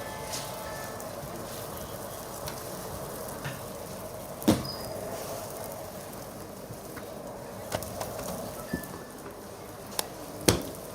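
Food sizzling steadily in hot oil, with scattered light clicks and one sharper knock about four and a half seconds in.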